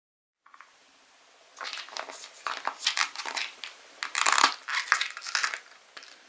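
Slime being squeezed and pressed by hand, giving a dense run of sharp crackling pops that starts about a second and a half in and lasts about four seconds.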